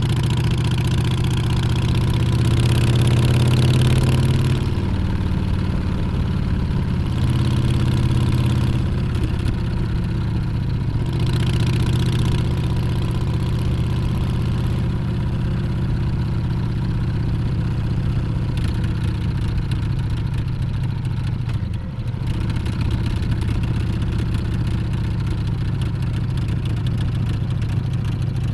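Harley-Davidson Street Bob 114's Milwaukee-Eight V-twin engine running on the road, its note rising and falling with the throttle, with a brief drop about two-thirds of the way through. Wind rushes over the microphone at times.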